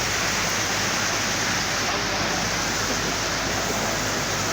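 Swat River in flood: a steady rush of floodwater.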